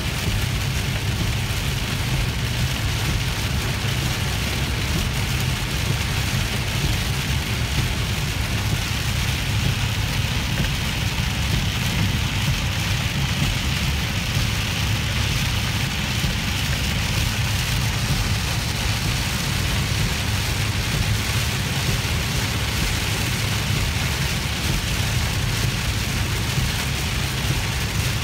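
Heavy rain on a car, heard from inside the cabin while it drives on a wet highway: a steady hiss of rain and tyre spray over a constant low road rumble.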